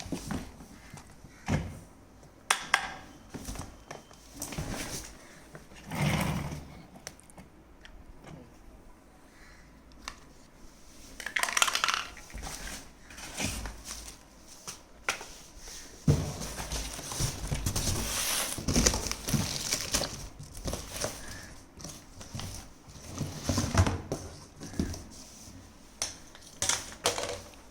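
Cardboard box and packaging being handled and opened: irregular rustling, crinkling and scraping, with scattered knocks.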